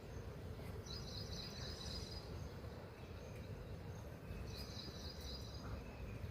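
Birds chirping: two high trills of about a second and a half each, a few seconds apart, over a steady low background rumble.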